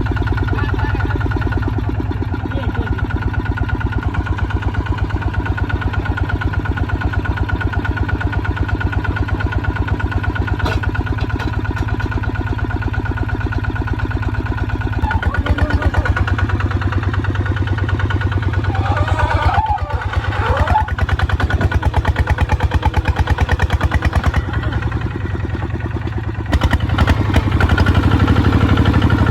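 Small tractor's engine running steadily with a continuous, even firing beat. It drops a little in loudness a few seconds before the end, then picks up again.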